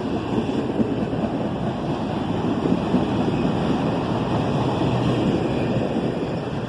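Empty auto-rack freight cars rolling past: a steady rumble of steel wheels on rail with a dense, uneven rattle and clatter from the cars.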